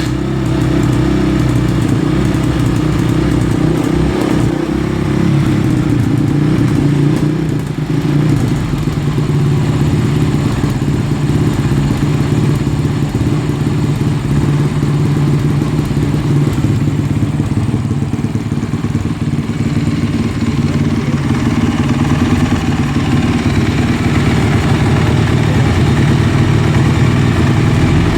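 A new 2017 Honda CRF450R's single-cylinder four-stroke engine idling steadily on its first start.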